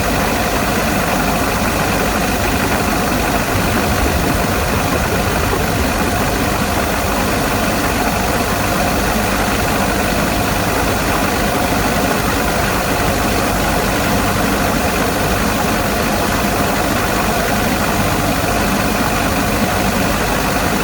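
Perkins diesel engine running steadily at idle.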